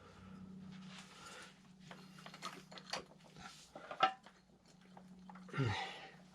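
Hand tools and metal engine parts of a small motorcycle's top end clicking, clinking and knocking during disassembly, over a steady low hum. A louder short sound with a falling pitch comes about five and a half seconds in.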